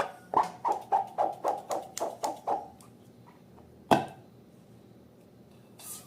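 Slime being worked by hand, giving a quick run of short sticky squelches, about four a second, that stops a little over halfway through. A single sharp click follows about four seconds in.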